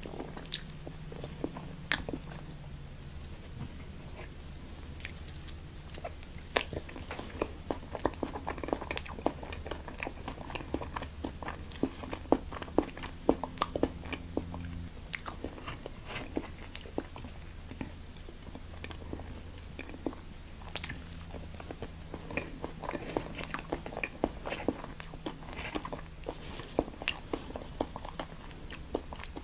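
Close-miked biting and chewing of crunchy food, a steady run of crisp crackles and wet clicks, busiest through the middle and again near the end.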